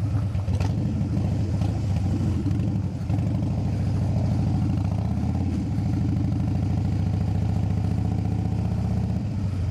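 Motorcycle engine running steadily at low revs close by, a dense even pulsing throb.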